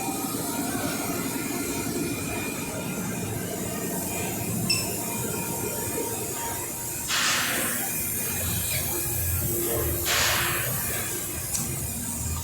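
Air compressor running steadily with a low rumble, with two short hisses about seven and ten seconds in.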